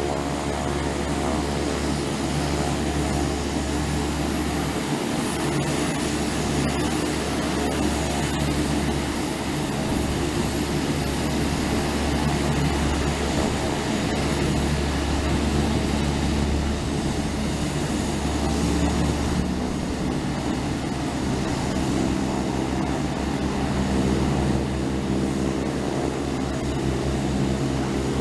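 Propeller airplane engine running steadily at an even pitch, with a steady engine hum and no clear rise or fall.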